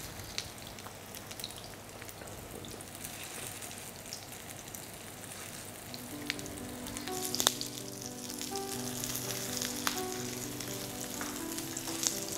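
Chicken-stuffed youtiao sizzling in hot oil in a frying pan, a steady hiss with scattered crackles and pops. The chicken side is pressed down first to seal it. Soft background music comes in about six seconds in.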